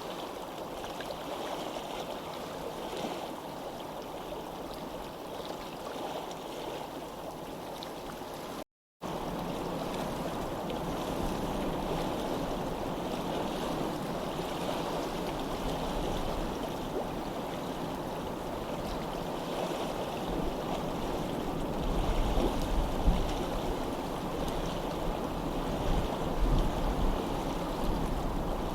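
Steady rushing of flowing stream water, cut by a brief dead-silent gap about nine seconds in. Irregular low rumbles join it near the end.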